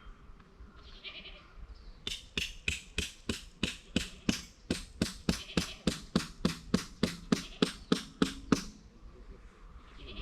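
A tent peg being driven in with a hammer: a quick run of about two dozen sharp strikes, roughly four a second, growing louder, starting about two seconds in and stopping near the end.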